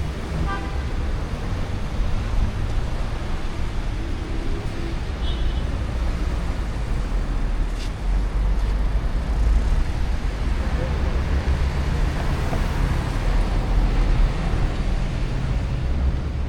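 Downtown street traffic: a steady mix of vehicle engines running and passing, with a heavy low rumble.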